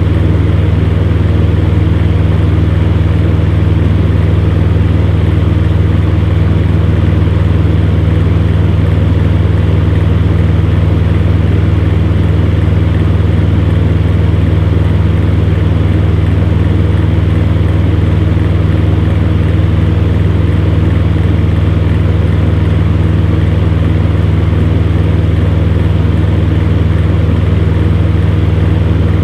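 Electric fan running steadily: a constant low motor hum with a rush of moving air, unchanging throughout.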